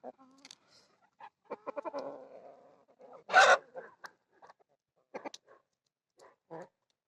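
Domestic chickens clucking in short, scattered calls, with one much louder call about three and a half seconds in.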